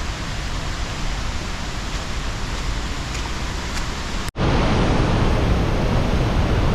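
Steady rush of a waterfall in a river running high. About four seconds in the sound cuts out for an instant, and after that the rushing water is louder and deeper.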